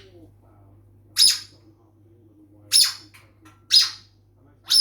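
African grey parrot giving four short squawks, roughly a second apart.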